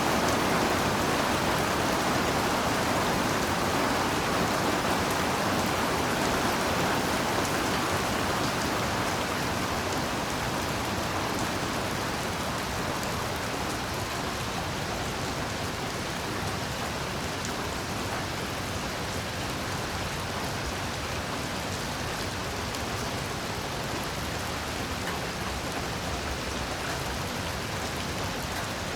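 Heavy rain falling steadily in a dense, even hiss. It eases a little over the first dozen seconds, then holds steady.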